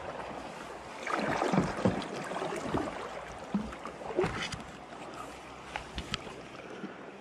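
Kayak paddle strokes splashing in the river, with the loudest splashing about a second in and again about four seconds in, then a few sharp knocks near the end.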